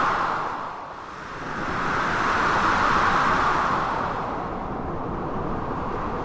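Blizzard wind with surf: a steady rushing noise that swells, dips about a second in, rises again to a peak around three seconds, then settles lower.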